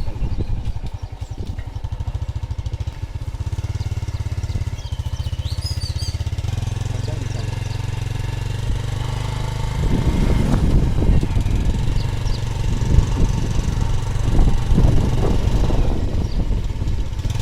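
A small engine running steadily with an even low pulse.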